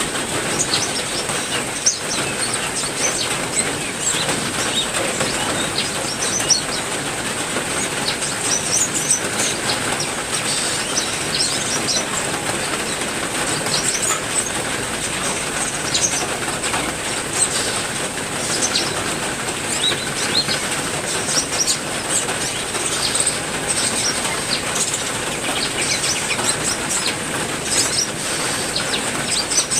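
Steady rain falling, with many small cage birds chirping and calling in short bursts over it.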